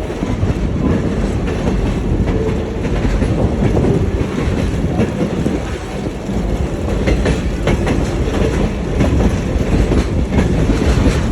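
Passenger train running along the rails, heard from aboard: a steady rumble with irregular clicks of the wheels over rail joints, more of them in the second half.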